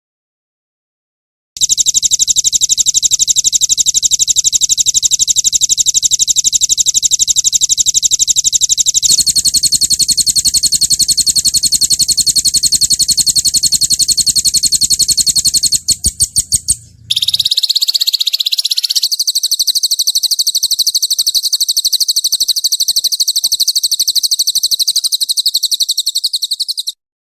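Recorded songbird trills: very fast, high repeated notes in a string of different rapid rolls. The notes change pattern about nine seconds in, break into a few separate notes past halfway, then pick up as a new trill. This is a 'roll tembak' masteran recording of rapid trills, used for caged songbirds to learn.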